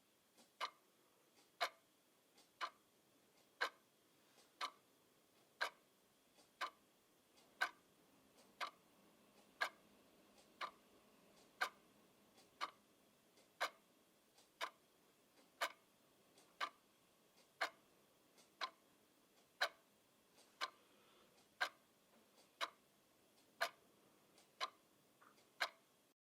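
Clock ticking steadily and fairly quietly, about one tick a second, with fainter clicks between some of the ticks.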